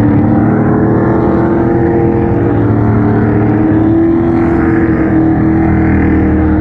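Pro Truck race trucks' engines running at speed around a short oval track, a steady loud drone of several engines whose pitch rises a little midway.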